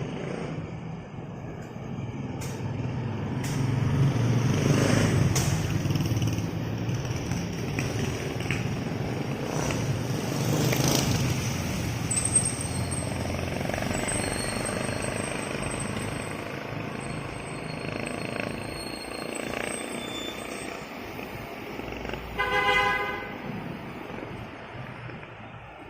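Road vehicles passing with a low rumble that swells and fades twice, then a short single horn toot near the end.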